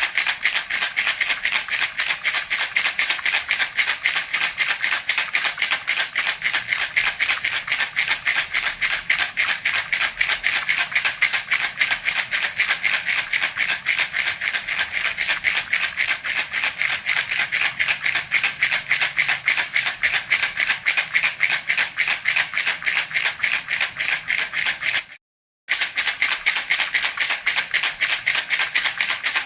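A baby's rattle (jhunjhuna) shaken steadily and rapidly, its beads rattling in an even rhythm. The sound cuts out completely for about half a second near the end, then resumes.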